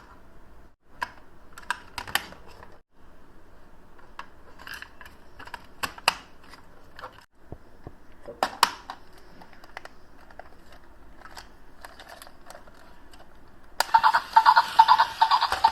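Light, irregular clicks and taps of a toy being unpacked and handled. About two seconds before the end, a much louder continuous electronic sound with a pulsing rhythm suddenly starts.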